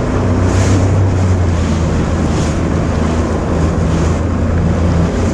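Sea-Doo personal watercraft engine running steadily, with water sloshing and splashing against the hull in swishes every second or two and wind buffeting the microphone.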